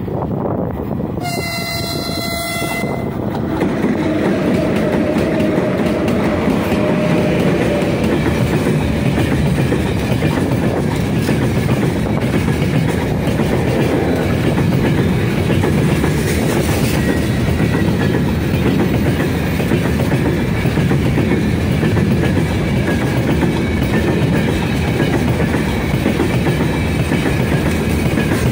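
A 3ES5K 'Ermak' electric locomotive sounds its horn in one blast of about two seconds, a second in, as it approaches with a freight train. It then runs past, and a long line of open gondola wagons rolls by with the steady noise of steel wheels on the rails.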